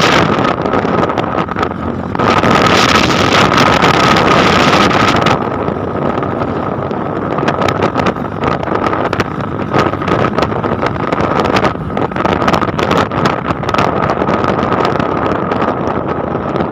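Loud wind noise on the microphone over a steady drone with a thin high tone, stronger for a few seconds early on, then breaking into dense crackling.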